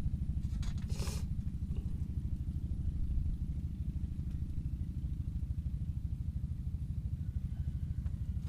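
A small engine running steadily with a low, rapid chugging, and a brief rushing noise about a second in.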